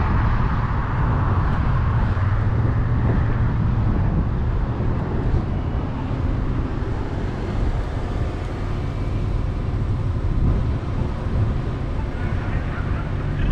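Steady rumble of a moving vehicle: road and engine noise heard on the way, with no clear changes.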